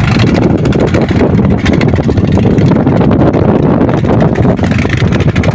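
Strong wind buffeting the microphone: a loud, steady, low rumble that fluctuates throughout.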